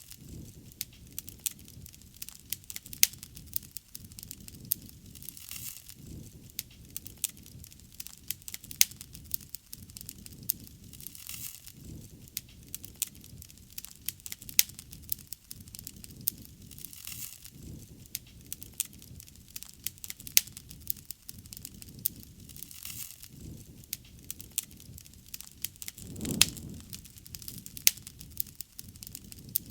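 Wood fire burning, crackling with frequent sharp pops over a low, uneven rumble of flame. There is a brief louder swell of the rumble near the end.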